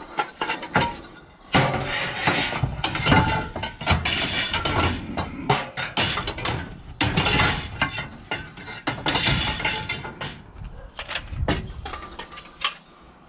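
Scrap metal being handled: repeated clanks, knocks and rattles of metal pieces striking each other, irregular and continuing throughout.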